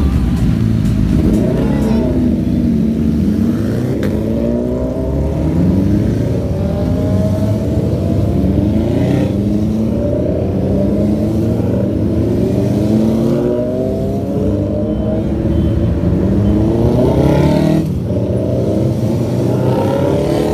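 Several motorcycle engines accelerating together over steady road rumble, their pitches rising again and again as they pull through the gears.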